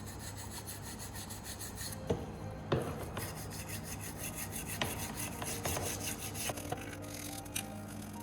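Continuous rubbing or scraping, with a few sharp knocks.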